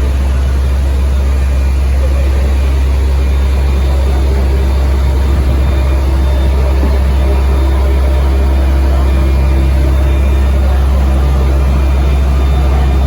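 Heavy diesel road-construction machinery running steadily: a loud, deep, even engine rumble.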